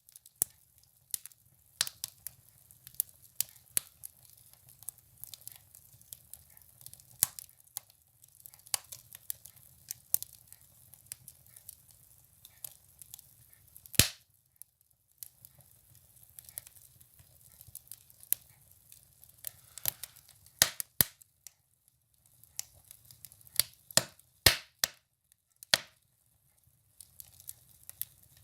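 Firewood burning in a stove: irregular sharp crackles and pops over a faint low rumble of the flames, with one louder pop about halfway through.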